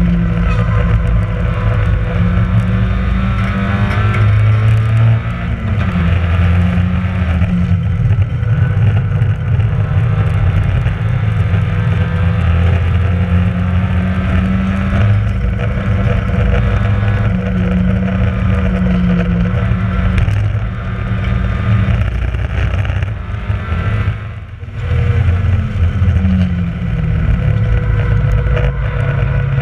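Onboard sound of a racing Mazda MX-5's four-cylinder engine under hard acceleration, its note climbing and dropping back in steps as it shifts through the gears, with a brief lift off the throttle about three quarters of the way through.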